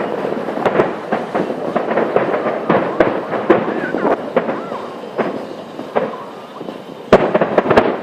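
Fireworks display: a rapid run of bangs and crackles that thins out about five to seven seconds in, then a loud fresh burst of bangs near the end.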